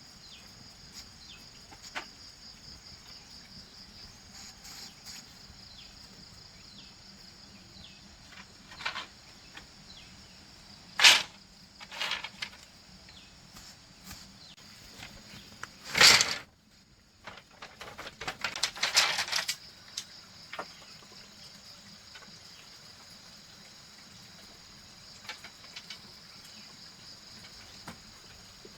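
Steady, high-pitched insect chorus with scattered sharp knocks. The loudest knock comes near the middle, and a short burst of clattering knocks follows a few seconds later.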